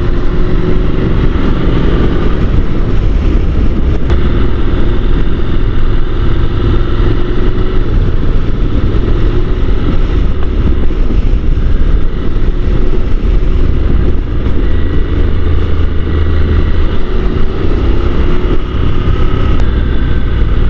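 Honda NC750 DCT parallel-twin motorcycle cruising at road speed: a steady engine drone under heavy wind rush, the engine note rising and falling slightly.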